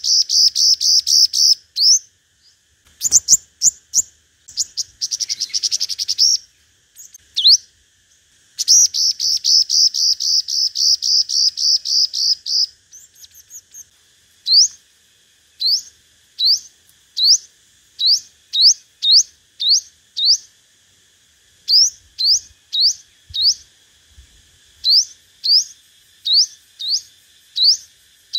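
Sunbird (the 'five-colour' sunbird) singing its challenge song. First come runs of very fast, high trills lasting a few seconds each. From about halfway it switches to single sharp rising notes, roughly one or two a second. A faint steady insect drone runs underneath.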